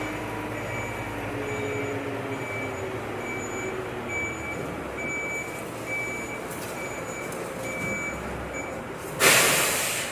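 Volvo FM 370 truck reversing, its reversing alarm giving a steady series of high beeps over the engine. About nine seconds in the beeping stops and the air brakes give a loud, short hiss as the truck halts.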